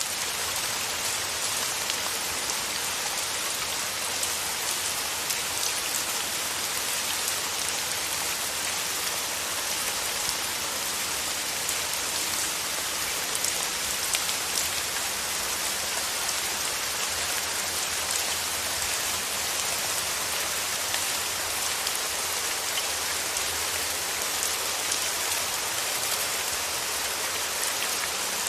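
Steady rain falling: an even, dense hiss with fine drop ticks throughout, holding one level.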